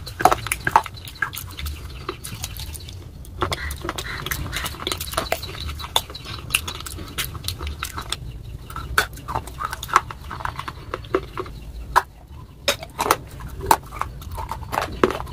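Close-miked chewing of crunchy clay pieces in a wet red paste: irregular crunches, crackles and wet mouth clicks, with a couple of short pauses.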